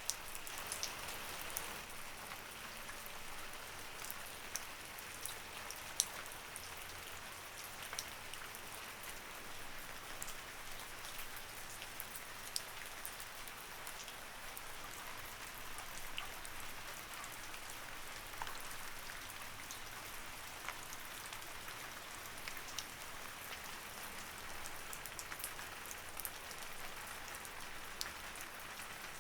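Light rain falling, a steady soft patter with scattered individual drops ticking sharply, one louder drop about six seconds in.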